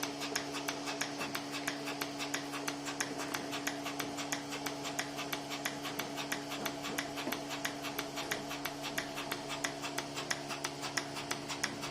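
Portable milking machine running under vacuum on a cow: a steady mechanical hum with a rapid, regular ticking over it.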